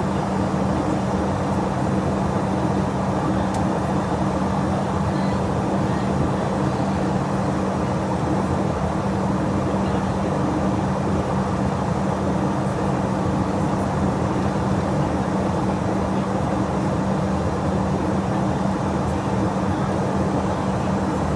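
Steady drone of a jet airliner in flight heard from inside the cabin: even engine and airflow noise with a constant low hum running through it.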